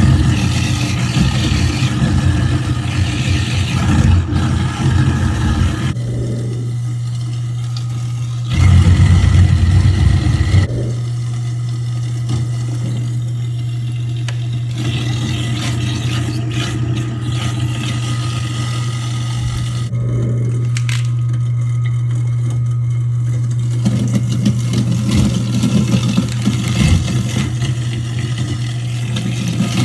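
InSinkErator garbage disposal running with a steady motor hum, grinding and rattling as food scraps go through it. About nine seconds in, a louder, deeper grinding lasts about two seconds.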